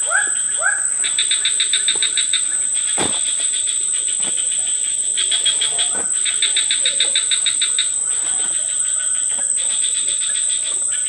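Tropical forest insect chorus: a steady high-pitched drone, overlaid by spells of fast-pulsed chirping that start and stop every second or two. A few short rising calls repeat at the start.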